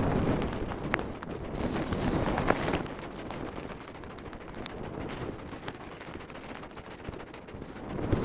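Mountain bike rolling over a rough trail: tyres rumbling over the ground while the bike rattles, with many sharp clicks and knocks. Louder for the first three seconds, then quieter.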